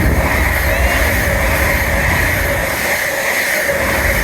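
A passenger train running through the station at speed: steady loud rumble and rail noise from the wheels, just after its horn.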